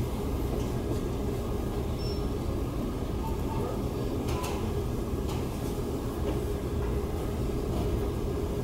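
Steady low rumble with a few faint clicks and ticks.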